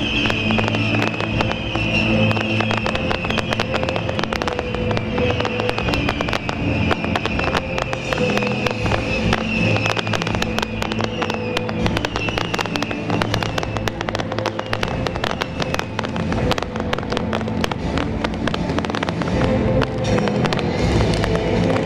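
Beehive-firework barrage: hundreds of bottle rockets firing and bursting at once in a dense, continuous crackle of rapid bangs, with music over it.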